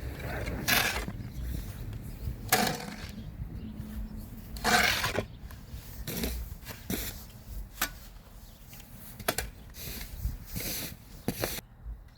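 Snow shovel scraping and scooping snow in irregular strokes, with a few sharper knocks of the blade later on.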